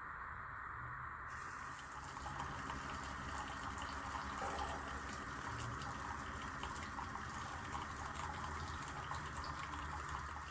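Keurig K-Iced single-serve coffee maker brewing, a steady stream of liquid running into a cup.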